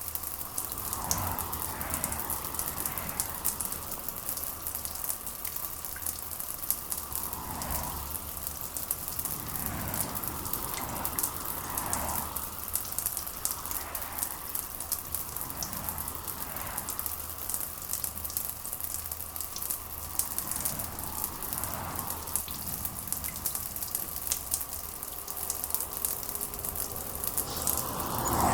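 Steady rain falling, with fine drops pattering close by over a low steady rumble. Softer swells come and go every couple of seconds, and a louder swell rises at the very end.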